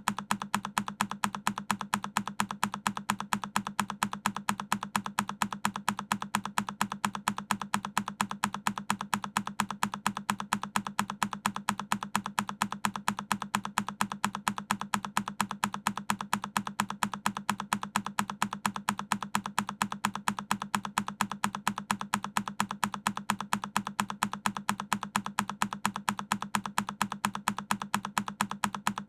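A single key press on a Keychron K10 mechanical keyboard, repeated in a loop as a rapid, even run of clicks, about four to five a second.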